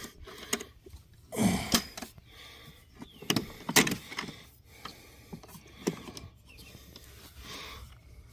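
Handle latches and folding handle of a 40V cordless push lawn mower being worked by hand: a string of separate clicks, clunks and knocks as the handle is released and folded down for storage.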